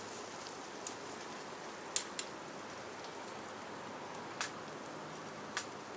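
Twigs burning in a small wood-fired camp stove: a steady hiss with about five sharp crackling pops.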